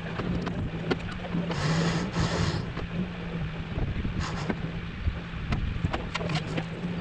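A steady low machine hum, with wind gusting on the microphone twice and a few scattered clicks.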